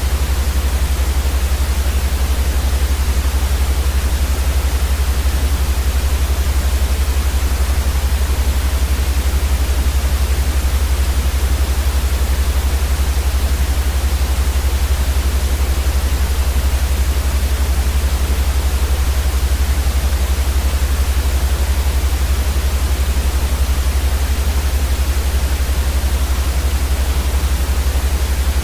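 Steady white noise for baby sleep: an even, unchanging hiss with a strong low rumble underneath.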